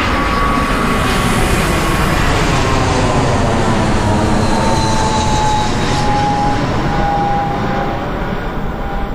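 Jet airliner passing low overhead on its landing approach: a steady, loud engine roar with a whine that falls slowly in pitch as it goes over.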